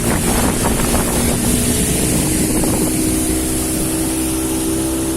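Speedboat with a 40-horsepower engine running steadily at speed, heard from aboard, with wind and rushing water over it; choppier water noise in the first couple of seconds settles into a smoother run.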